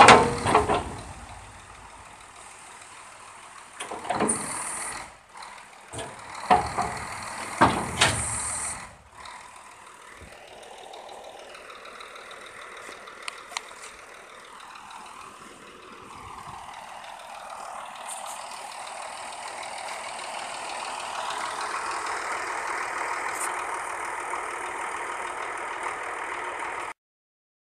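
Scania 114C heavy diesel truck running, with several short loud bursts and hissing in the first few seconds, typical of the truck's air system. Then a steady engine and machinery sound whose pitch glides and grows louder about two-thirds of the way in, before it cuts off suddenly near the end.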